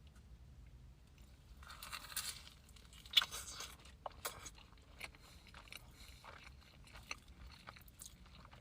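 Close-miked eating: a short crunching noise about two seconds in, a louder crunchy bite just after three seconds, then chewing with many small clicks.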